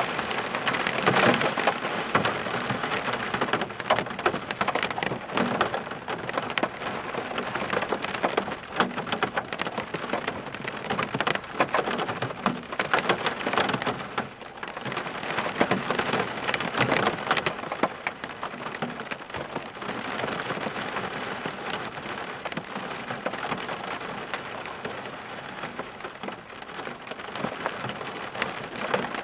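Rain falling steadily, a continuous wash of many sharp drop hits on a surface, swelling and easing slightly in intensity.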